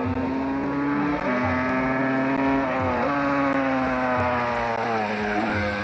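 Rally car engine running at high revs on a timed stage. The revs dip briefly three times, about a second in, near the middle and near the end, as at gear changes or lifts off the throttle.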